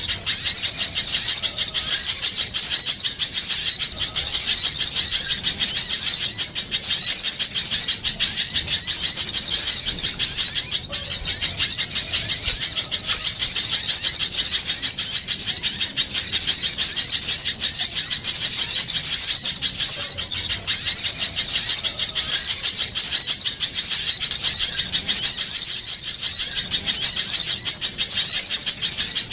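Many small birds chirping and chattering in a dense, continuous, high-pitched racket, played as a lure call to draw small birds in for trapping.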